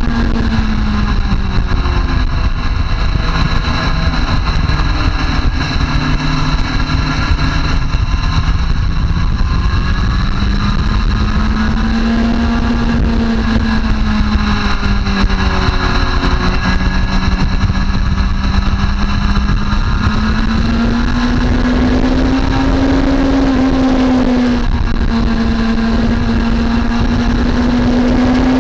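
Motorcycle engine running at speed on a race track, its pitch rising and falling slowly as the revs climb and drop, over a steady low rushing noise.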